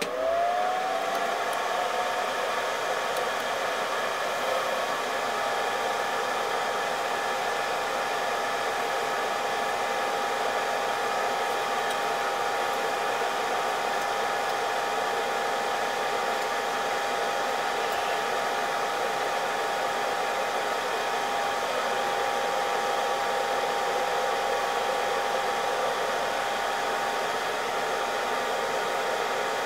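Hot-air blower for a GPU reflow switched on: its motor whine rises in pitch over about the first second, then holds steady under a loud, even rush of air.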